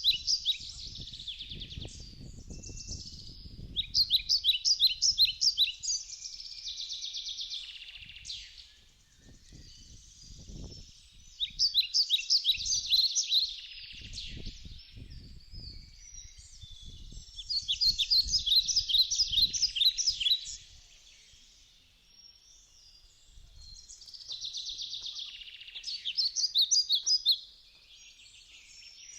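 A songbird singing loud phrases of rapid repeated notes, one phrase every five or six seconds, with quieter chirps in between.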